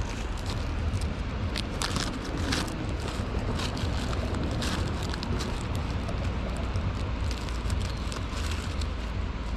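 Wind buffeting the microphone as a steady low rumble, with scattered clicks and rustles of handling, thickest about two seconds in and again near the middle.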